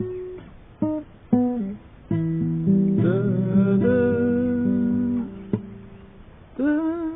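Acoustic guitar being played, with single plucked notes and then strummed chords. A voice sings a wavering held phrase about three seconds in and another near the end.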